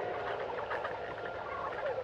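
Rainforest animal chorus: many short chirps and croaks overlapping in a steady dense layer, with frogs the likeliest callers.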